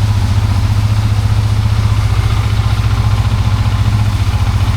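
Motorcycle engine idling steadily with an even, fast pulse, most likely the Benelli 150S's 150cc liquid-cooled engine.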